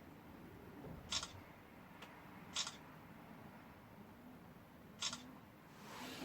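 Camera shutter clicking three times, a second and a half to two and a half seconds apart, as photos are taken.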